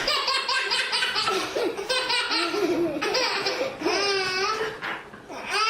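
Sustained hearty laughter in quick repeated bursts, with a long high wavering squeal of laughter about four seconds in.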